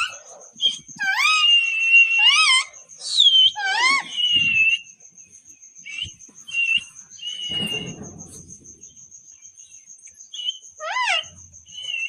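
Pet parrot calling: a string of loud, rising screechy calls and held whistling notes, then quieter short chirps, with another rising call near the end.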